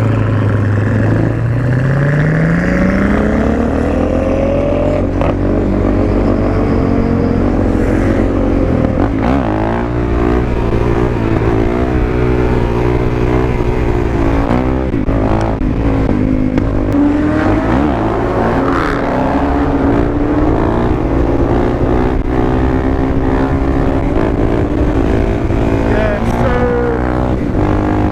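Suzuki DR-Z400SM supermoto's single-cylinder engine pulling up through the revs over the first few seconds, then running at a steady cruise with the throttle wavering, mixed with traffic noise.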